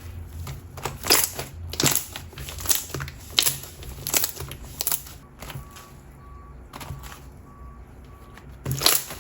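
Watery water-jelly slime being squeezed and poked by hand, giving wet clicks and squelches about once every 0.7 s. They go quiet for a few seconds near the middle, then one loud squelch comes near the end.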